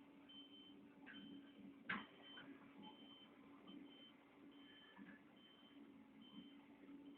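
Faint reversing alarm of a Caterpillar 140H motor grader beeping evenly, a little more than once a second, over a low steady hum. A single sharp click about two seconds in.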